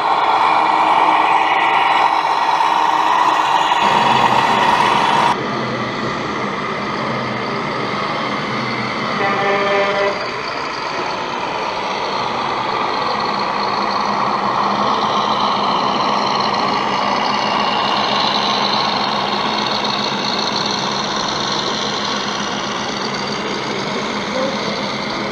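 Electronic engine sounds from radio-controlled model trucks' sound modules running steadily, with a brief horn about nine seconds in. The sound changes abruptly about five seconds in.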